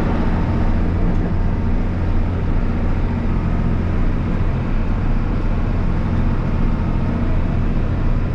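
Heavy vehicle engine running at a steady speed: a low, even drone with a steady rushing noise over it that does not change.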